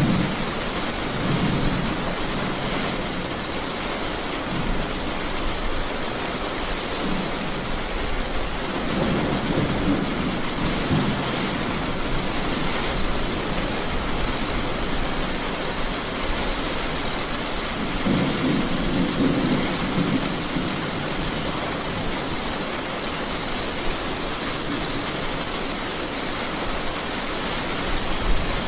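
Steady heavy rain hissing, with low rolls of thunder swelling and fading three times: near the start, about nine seconds in, and about eighteen seconds in.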